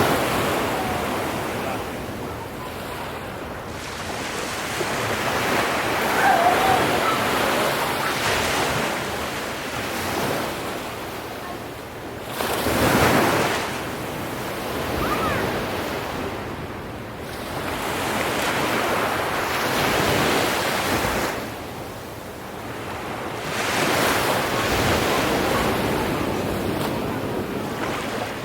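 Ocean waves breaking and washing on a shore, swelling and ebbing every few seconds, with wind buffeting the microphone.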